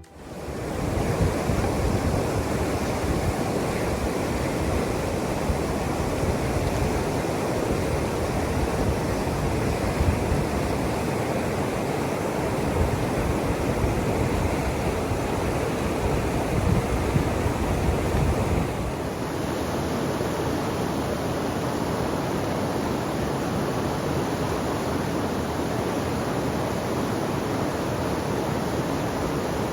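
Waterfall: a steady rush of falling river water. About 19 seconds in it changes abruptly to a slightly different, less deep rush, as the recording switches to another falls.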